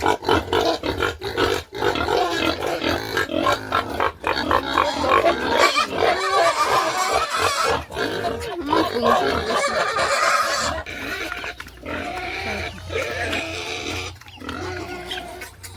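Several pigs grunting and squealing in a pen, the calls dense and loud for the first ten seconds or so, then thinner and quieter.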